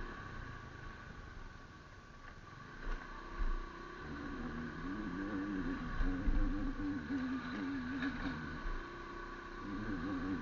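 A motor vehicle running on the road with low wind thumps on the microphone. Through the middle and again near the end there is a wavering, warbling pitched tone.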